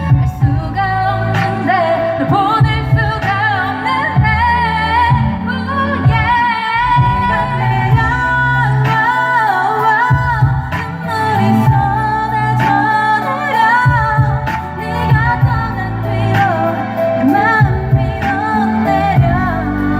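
Female vocals singing a K-pop song over a backing track with a heavy, repeating bass line.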